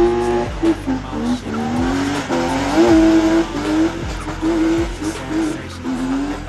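A car engine driven hard in a drift, its revs climbing, holding high and dropping again several times, with tyres skidding on the wet surface.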